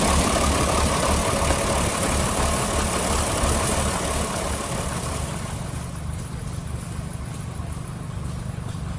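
Vintage engine running with a steady low pulsing beat, fading away over the last few seconds.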